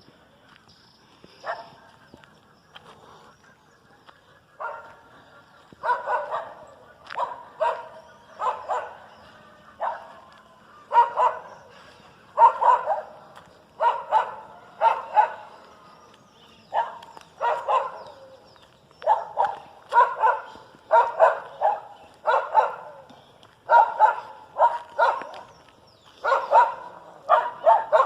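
A dog barking repeatedly, the barks coming in quick clusters of two or three, starting a few seconds in and carrying on.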